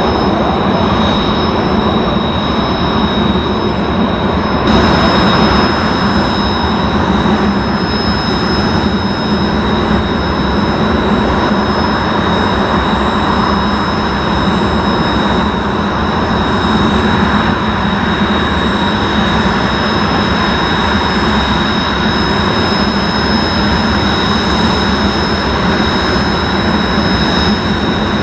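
Lockheed Martin F-35A's single Pratt & Whitney F135 turbofan running steadily: a loud, unbroken jet roar with a steady high-pitched whine over it. The roar gets slightly brighter and louder about five seconds in.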